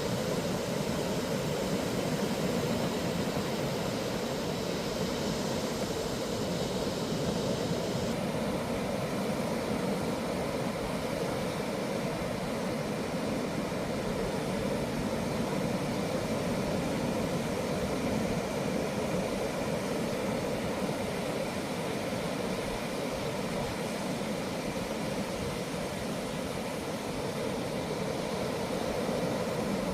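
Continuous roar of ocean surf breaking along a sandy beach: a steady, even wash of noise, its higher hiss easing off about eight seconds in.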